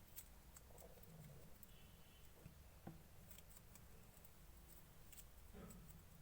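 Faint, irregular sticky clicks and crackles of clear slime being mixed and pressed, with one slightly sharper click about three seconds in.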